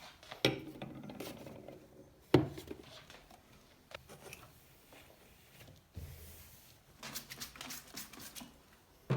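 Household objects being handled: scattered knocks, clicks and rubbing, with one sharp knock about two and a half seconds in and a run of small clicks near the end.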